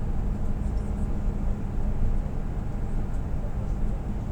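Steady low drone of a truck's engine and road noise, heard from inside the cab while driving.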